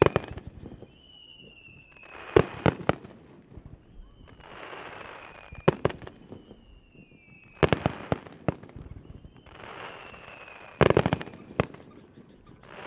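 Aerial firework shells going off in turn, about one every three seconds. Each is a rising hiss followed by a loud bang and a few sharper cracks, with a thin whistle sliding down in pitch in the background.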